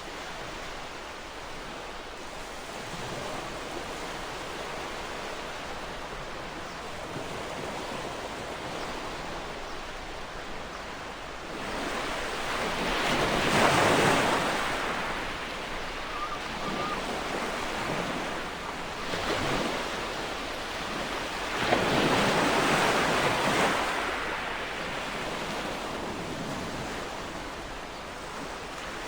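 Ocean waves breaking on a shore: a steady wash of surf at first, then about halfway through larger waves swell and crash, with two more breaking later and the foam hissing back between them.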